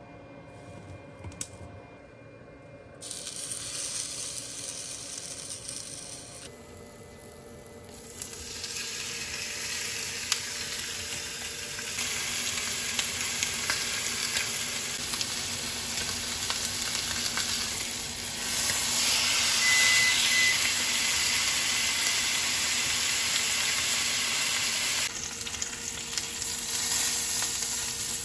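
Marbled beef steak, asparagus, small potatoes and kabocha squash sizzling in a red enamelled cast iron grill pan. The sizzle starts about three seconds in, dips briefly, then builds again and is loudest for several seconds past the middle before easing off near the end.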